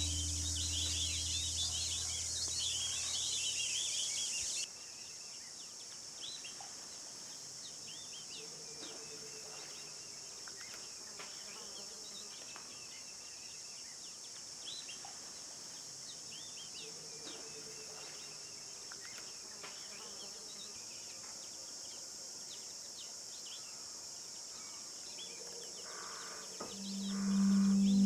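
Outdoor bush ambience: a steady high insect drone with many short bird calls scattered over it. The level drops sharply about four and a half seconds in, and music comes in near the end.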